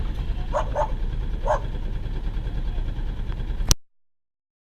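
Sailboat's inboard engine running steadily under way, a low pulsing rumble, with three short pitched calls about half a second and a second and a half in. The sound cuts off abruptly near the end.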